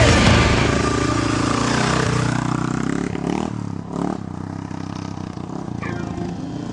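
Dirt bike engine running and revving, its pitch rising and falling, getting gradually quieter.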